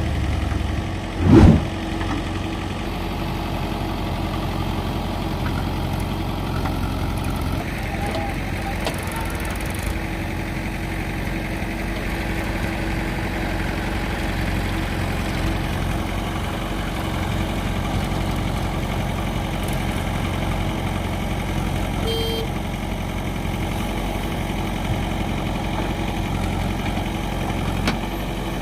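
Diesel engine of a backhoe loader or tractor running steadily at a low, even speed, with a single loud clunk about a second in and a short beep a little past two-thirds of the way through.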